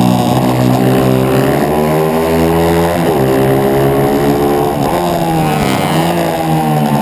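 140cc single-cylinder four-stroke pitbike engine racing under the on-board rider, its revs climbing through the gears and dropping sharply twice, about three and five seconds in, at gear changes or braking before climbing again.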